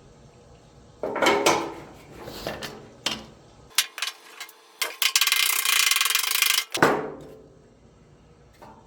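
Metal hand-tool work on a car body panel: a sharp metallic clank with ringing about a second in, a few knocks, then about two seconds of fast ratcheting that ends in a clunk.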